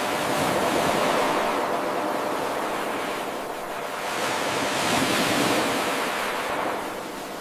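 Ocean waves breaking and washing up a shore, surging twice: about a second in and again around five seconds in, easing off in between.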